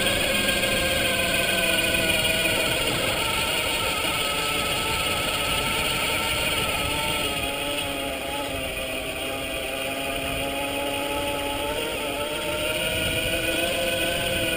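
Electric bike motor whining under power. Its pitch sinks slowly midway and climbs again near the end, over the rumble of wind on the microphone.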